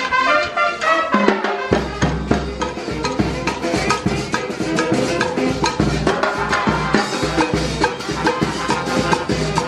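Murga band music: pitched melody instruments over drums and percussion keeping a steady, even beat.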